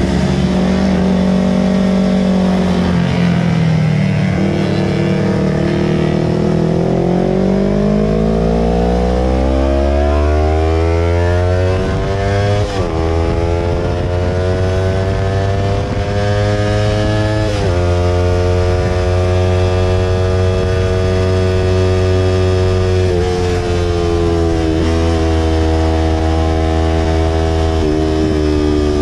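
Yamaha R25 parallel-twin engine through a Villan Pro 2 aftermarket exhaust, easing off briefly, then pulling up in revs for several seconds. Two quick drops in pitch follow, like gear changes, after which it runs at fairly steady revs.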